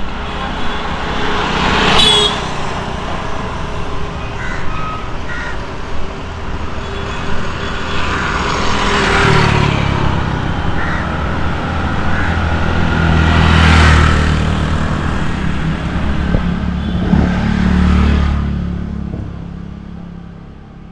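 Road traffic passing close by: several vehicles go by one after another, each swelling and dying away, over a low engine hum. The sound fades away near the end.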